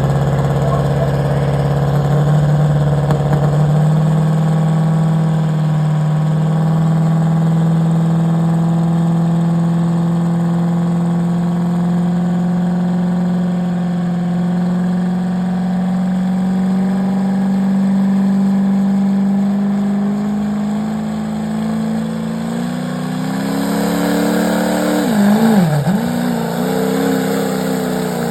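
Cummins 6.7-litre diesel engine of a pulling pickup held at high revs under heavy load while dragging a sled. The pitch climbs slowly and steadily, then wavers and dips sharply about 25 seconds in before recovering and falling away near the end as the truck bogs down.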